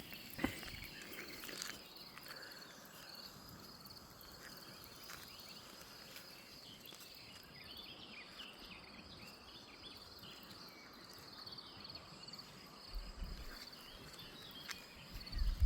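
Insects trilling steadily in a high, even pulse, with short chirps mixed in through the middle and a couple of low bumps near the end.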